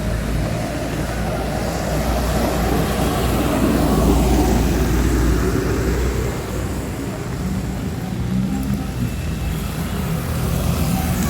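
Heavy rain pouring on a city street, with a motor vehicle passing on the wet road, louder for a few seconds in the middle before fading.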